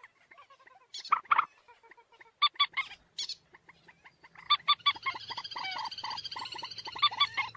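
Common moorhen calling: scattered short, harsh croaking calls, then from about four and a half seconds a fast run of clucking notes that overlap into a continuous cackle.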